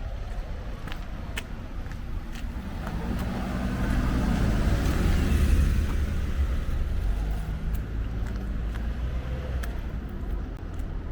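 A car driving past, its engine and tyre noise swelling to a peak about five seconds in and then fading with a slight drop in pitch. Footsteps tap steadily throughout.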